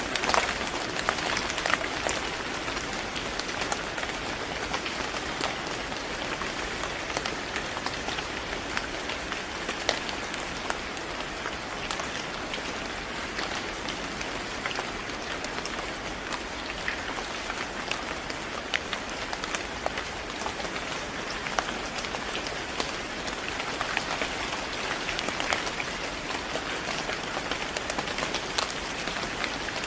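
Steady rain falling on a surface, a constant hiss with many small drop pattering ticks throughout.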